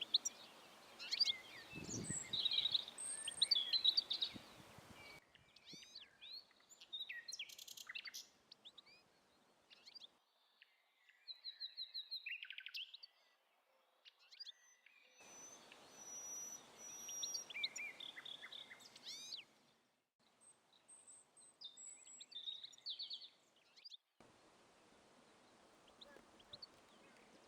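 Songbirds chirping and singing: many short chirps and a few quick trills. The background hiss changes abruptly every few seconds, as if separate recordings were spliced together.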